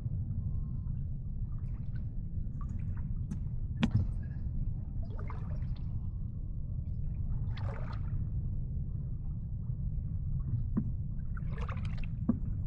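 Water lapping and sloshing in three short swishes over a steady low rumble, with a few sharp clicks and knocks, the loudest about four seconds in.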